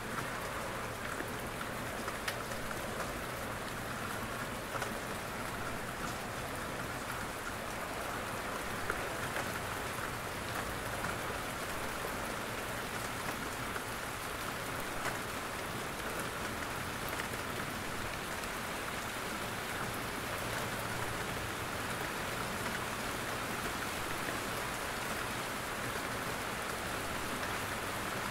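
Steady rain with drops falling from trees, a dense, even patter with occasional louder single drops.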